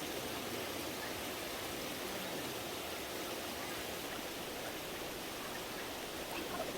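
Steady rushing of a shallow mountain stream flowing over rocks, with a couple of faint small clicks near the end.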